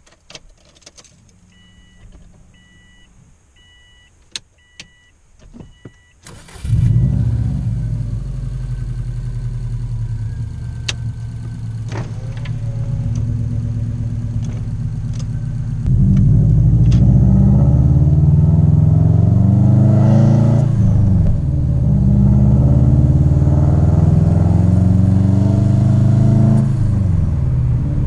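A car warning chime beeps about five times, then a Subaru WRX wagon's turbocharged flat-four engine starts about six seconds in and runs at low revs. From about halfway it accelerates, its pitch rising and then dropping at each gear change, several times over.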